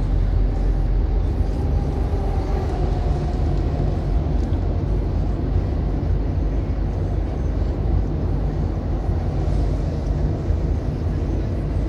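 Road noise heard from inside a moving car: a steady low rumble of engine and tyres.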